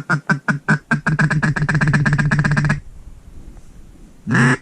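Hand-blown duck call worked close by: a few separate quacks that speed up into a fast rolling chatter, like a feed call, then one more loud quack near the end, calling circling ducks in to the decoys.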